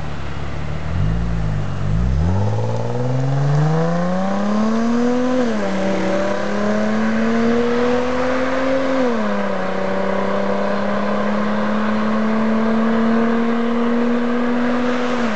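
Nissan 350Z's 3.5-litre V6 through an aftermarket Kakumei exhaust (Y-pipe, mid pipe and rear section) as the car pulls away: the engine note climbs, drops at a gear change about five seconds in, climbs again, drops at a second shift about nine seconds in, then holds at a steady cruise, falling off near the end.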